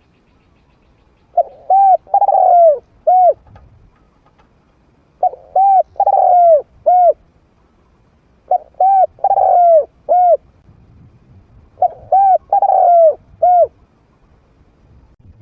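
Trained medium-voiced spotted dove cooing. Four phrases come about three and a half seconds apart, each of two short coos, a longer falling coo and a final short coo.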